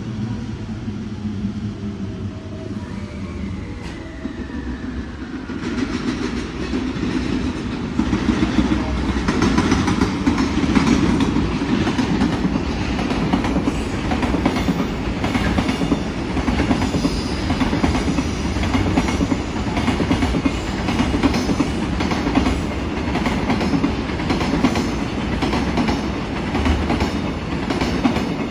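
A container freight train hauled by a JR Freight EF210 electric locomotive passing, its wheels clicking in a steady clickety-clack over the rail joints with a low rumble. The clicking gets louder about six to eight seconds in and keeps up to the end. A few seconds in there is a brief falling electric whine.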